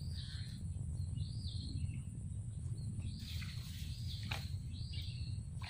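Birds calling: short arching chirps repeated about once a second, with a few quick down-sweeping calls in the second half, over a steady low rumble.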